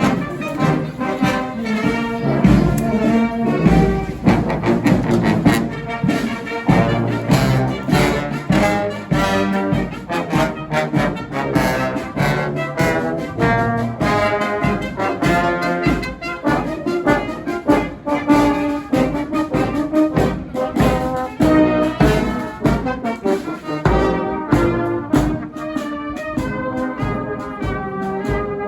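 Brass band playing a tune, with trumpets and trombones over a steady drum beat.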